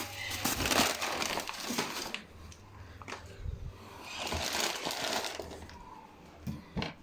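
Irregular rustling and clattering, as of things being handled, with a few sharp knocks and a faint steady low hum underneath.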